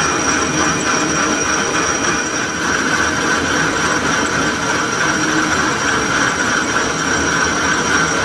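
Metal lathe running steadily while machining a sugarcane juicer roller bush: a continuous mechanical noise with a thin, steady high whine over it.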